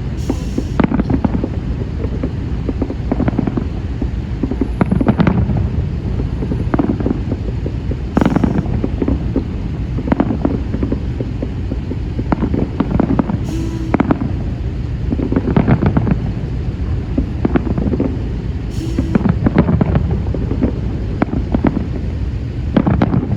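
Fireworks salute going off: many booms and cracks at irregular intervals, several a second at times, over a steady low rumble.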